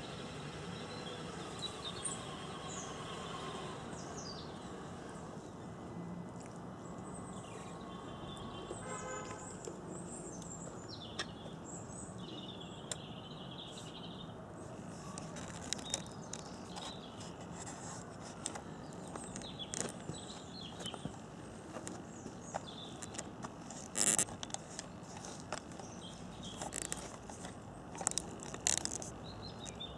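Small birds chirping over a steady background of outdoor noise, with a few sharp clicks, the loudest about three quarters of the way in and a couple more near the end.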